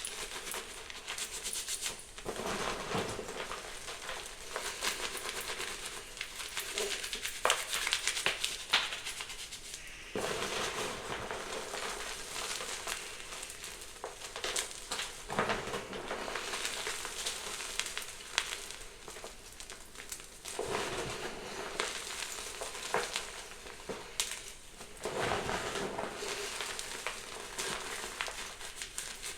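Chunks of gym chalk being crushed and crumbled, a continuous gritty crackle with sharp snaps, the loudest ones about eight seconds in.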